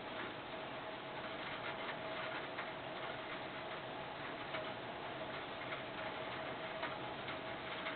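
Steady hiss of rain with irregular light ticks of dripping water, under a faint steady hum.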